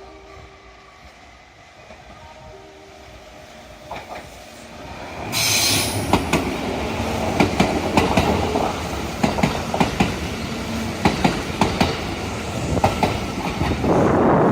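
Kintetsu electric train running past, wheels clacking over the rail joints in a quick string of sharp clicks. It starts with a short loud hiss about five seconds in.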